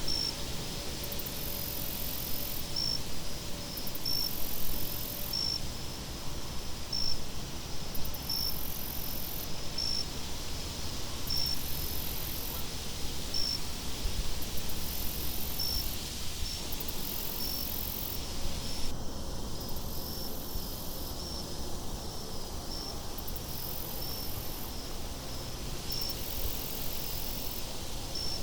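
Night-time nature ambience: insects chirping, with a short high chirp about once a second and a higher buzz that switches on and off in roughly one-second spells, over a steady low rumble of wind.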